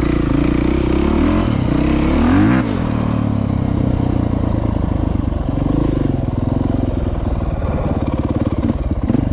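Dirt bike engine running at low speed, with a brief rise and fall in engine pitch about two and a half seconds in, then settling back to a steady note.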